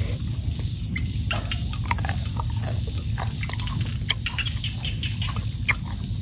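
A person chewing raw green tamarind pod close to the microphone: irregular crunchy clicks and crackles of the pod being bitten and chewed, over a steady low rumble.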